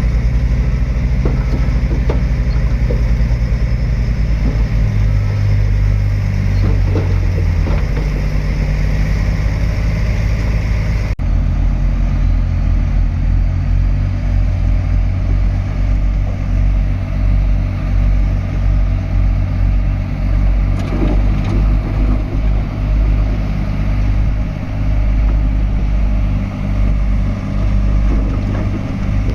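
Heavy diesel engine of a crawler bulldozer running steadily at work, with a few light clanks in the first part. The engine sound changes abruptly about eleven seconds in.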